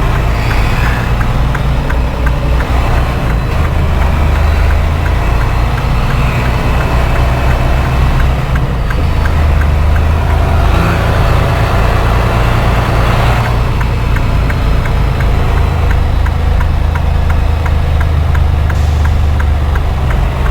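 Diesel engine of a semi-truck pulling a trailer away at low speed, heard from inside the cab; the low engine note steps up and down a few times as it pulls off.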